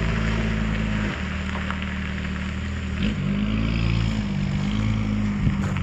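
Engine of a motor vehicle running; its pitch steps down about a second in and changes speed again around three and five seconds.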